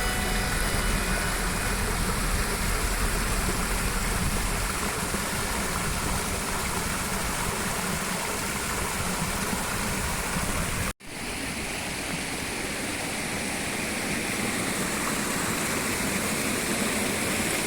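Steady rush of water from a waterfall and stream, cutting out briefly about eleven seconds in and resuming.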